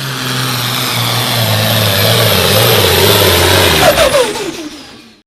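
Hot stock pulling tractor's turbocharged diesel running loud at full throttle under load. Just before four seconds in it backs off, and its pitch falls as it winds down and fades.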